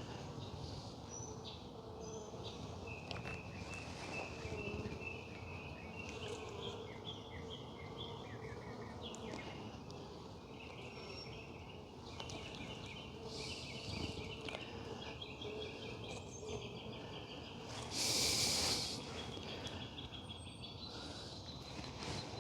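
Honeybees humming steadily around an open hive, with small birds chirping in repeated trills. A brief loud hiss comes about three-quarters of the way through.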